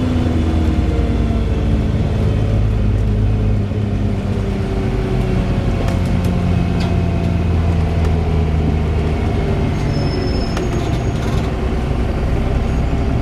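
Wright Pulsar Gemini 2 double-decker bus running, a steady engine hum with a few sharp ticks heard over it about halfway through and again near the end.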